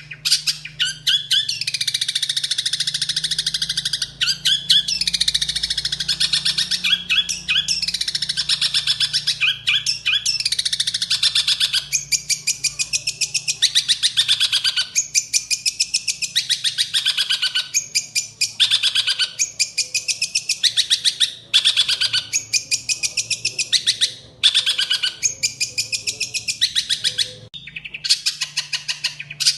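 A songbird singing a fast, high-pitched chattering song of rapidly repeated notes: an unbroken stream at first, then phrases of about a second with short breaks between them.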